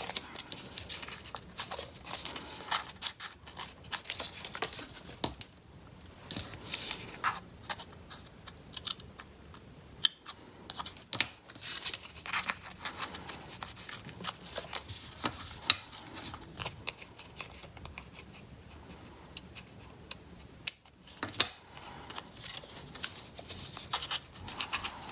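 Scissors snipping through paper in irregular short cuts, with paper rustling and crinkling as it is handled, cutting the slot in the paper bird's body for the wings.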